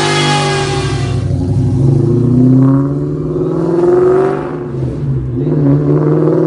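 Ford Mustang Cobra's supercharged V8 revving. A high whine fades out about a second in, then the revs rise and fall several times.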